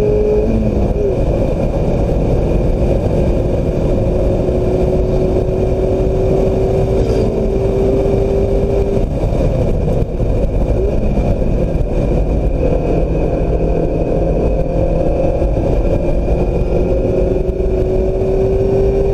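2016 Mazda MX-5 Miata's engine running at speed on track over heavy wind and road noise. The engine note climbs slowly for several seconds, falls away about nine seconds in, then climbs again near the end.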